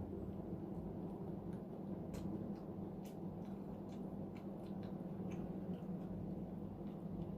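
Close-miked eating: irregular soft wet mouth clicks and smacks of chewing, over a steady low background hum.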